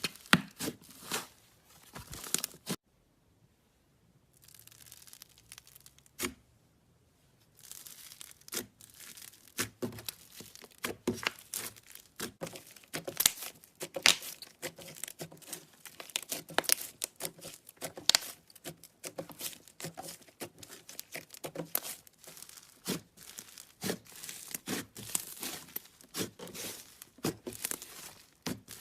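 Slime being squeezed and pulled by hand, making a dense run of irregular crackling pops and clicks, with a quieter pause a few seconds in.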